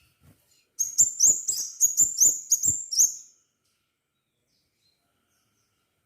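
Crimson sunbird singing a rapid run of about ten sharp, high-pitched chirps, roughly four a second, lasting about two and a half seconds.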